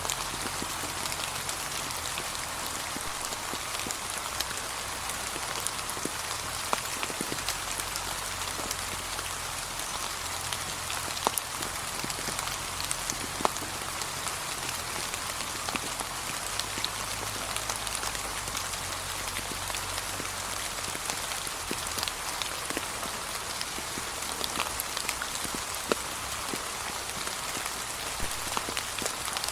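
Gentle rain falling steadily on fallen autumn leaves: an even hiss dotted with many small drop ticks, a few louder drips standing out here and there.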